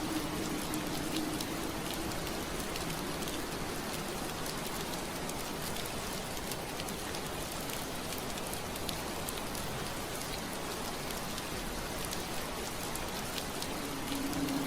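Steady rain pattering on window glass, an even hiss with many small drop ticks. A low steady hum underneath fades out shortly after the start and comes back near the end.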